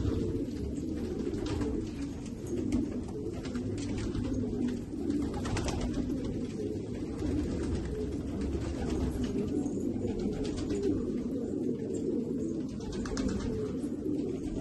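A group of domestic fancy pigeons cooing, their low coos overlapping without a break, with occasional short ticks.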